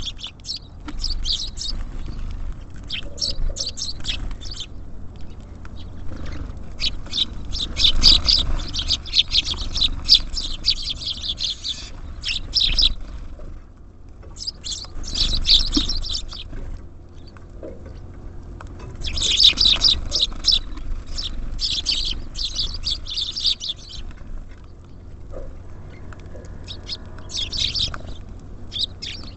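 Small songbirds chirping rapidly in repeated bouts of a few seconds each, with short quieter gaps between them. Underneath is a low steady rumble.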